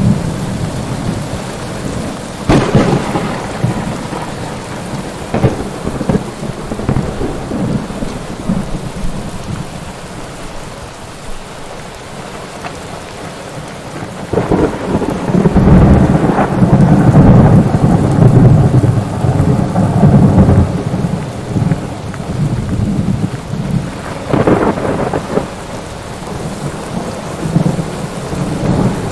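Thunderstorm: steady rain falling, with a sharp thunderclap about two and a half seconds in, smaller crackles after it, a long low rolling rumble of thunder in the middle, and another clap near the end.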